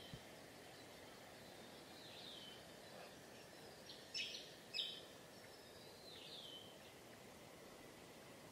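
Quiet outdoor ambience with a few short, high bird chirps: two sharper ones about four and five seconds in, and fainter falling calls about two and six seconds in.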